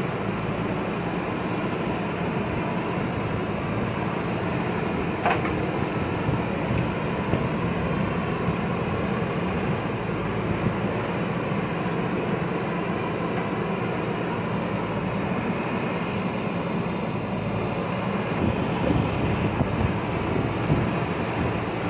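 Backhoe loader's diesel engine running steadily, with a sharp clank about five seconds in.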